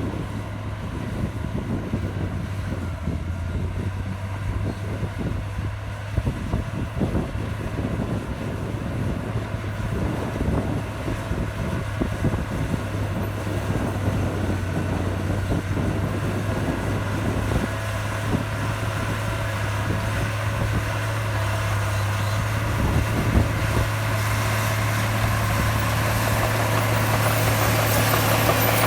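Komatsu bulldozer's heavy diesel engine running steadily under load with a constant low hum, getting gradually louder toward the end.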